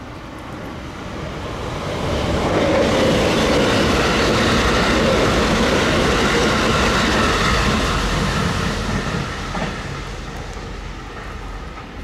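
JR West limited express electric train passing close by, with wheel-on-rail noise. It swells over the first couple of seconds, is loudest through the middle, and fades as the train runs away into the distance.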